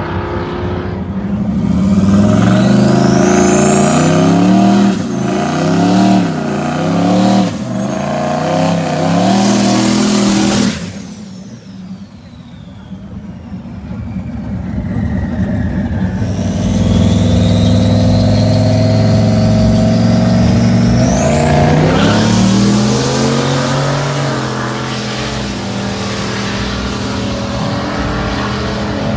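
Race truck engines at a drag strip revving up and down hard with high rising whistles, cutting off suddenly about ten seconds in. After a lull, an engine builds again and holds a steady drone through the rest.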